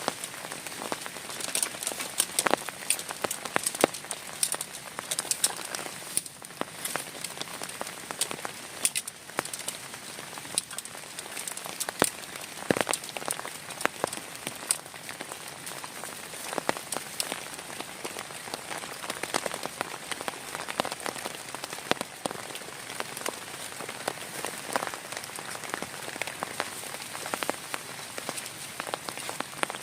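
Heavy rain falling steadily: a continuous hiss with many sharp individual drop hits.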